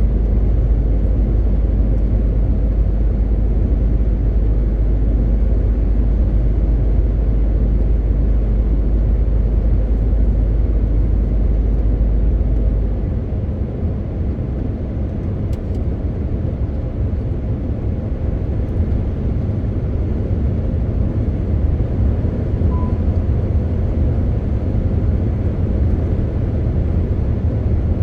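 MAN TGX 18.520 truck on the move: a steady engine drone with road noise. About 13 seconds in the deepest rumble drops away and the sound gets a little quieter.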